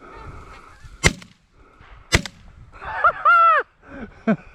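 Two shotgun shots about a second apart amid goose honking, followed by a loud drawn-out honk.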